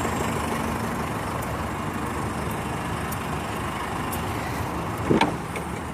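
A 2006 Jeep Liberty CRD's 2.8-litre four-cylinder turbo diesel idling steadily, with a brief rising-and-falling sound about five seconds in.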